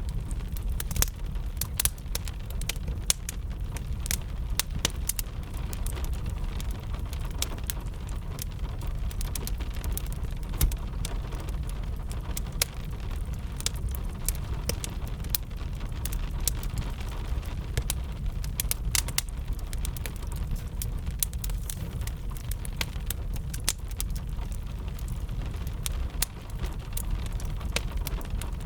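Wood fire crackling, with frequent irregular sharp pops and snaps over a steady low rumble, mixed with a continuous patter of gentle rain.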